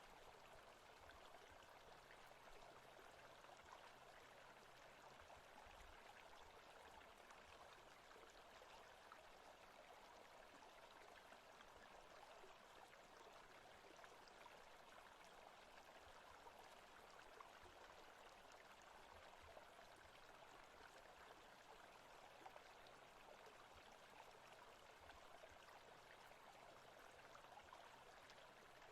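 Faint forest ambience: a stream flowing, a steady even rushing.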